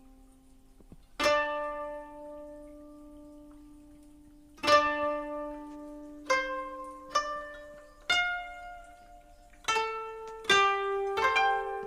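Music: a plucked string instrument playing slow, sparse notes, about eight in all, each ringing out and fading before the next.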